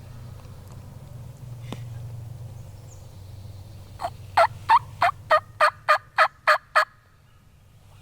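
Wild turkey yelping: a run of about ten loud, evenly spaced yelps, roughly three a second, starting about halfway through and stopping shortly before the end.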